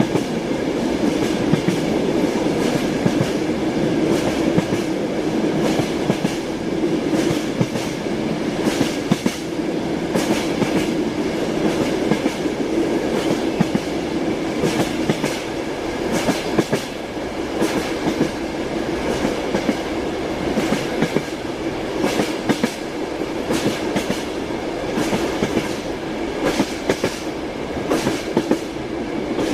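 Train wheels clicking over rail joints, with the steady rumble of a moving railway carriage.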